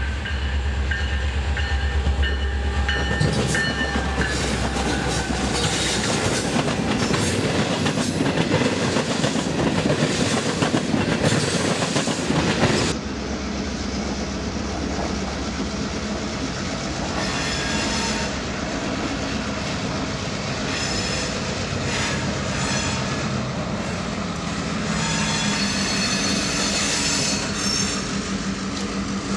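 Freight train passing close by: a diesel locomotive's low engine drone at first, then loud rolling noise of the train going by. After that, freight cars rattle and clack over the rail joints, with high-pitched wheel squeal coming and going in the second half.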